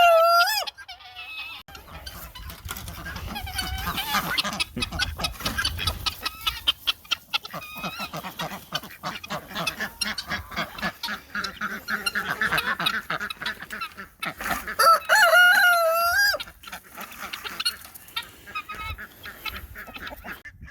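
Backyard flock of chickens calling: a rooster crows right at the start and again about fifteen seconds in, with clucking and other short fowl calls and scratching clicks between.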